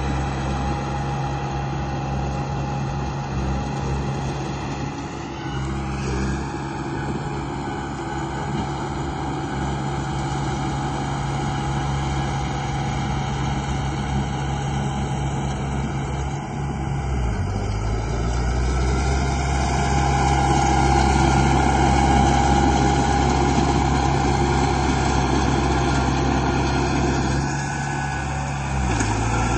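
Radio-controlled model construction machines running, a steady motor and gear hum made of several held tones. A whine rises in pitch about six seconds in. The running note shifts just past the middle and grows louder, then eases near the end.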